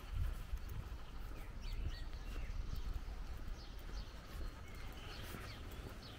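Small birds chirping in short, quick calls over a steady low rumble, with soft footsteps.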